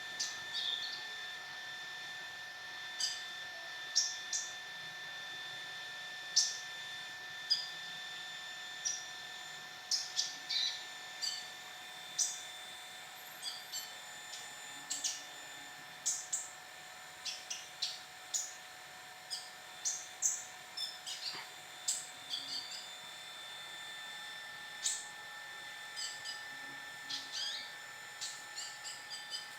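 Small songbirds chirping: short, high calls every second or so, irregular, over a steady faint high tone.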